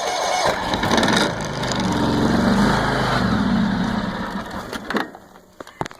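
John Deere X300 lawn tractor engine on a cold start with the choke on, cranking and firing unevenly for about five seconds, then stopping abruptly. A few short clicks follow.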